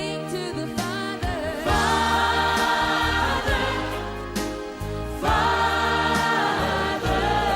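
Gospel worship song: a choir of voices sings long held chords, changing every couple of seconds, over steady low bass notes.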